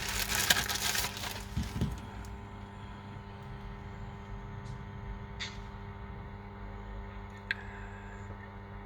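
Handling noise of tools and parts on a repair bench for about two seconds, then a steady electrical hum with a couple of small sharp clicks.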